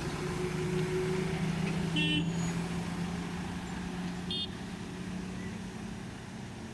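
Lorry engine running steadily with a low drone that slowly fades, and two short high-pitched horn toots about two seconds apart.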